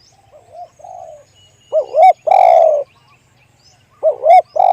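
Spotted dove cooing: two loud phrases, each of two short notes followed by a longer drawn-out coo, with fainter coos at the start.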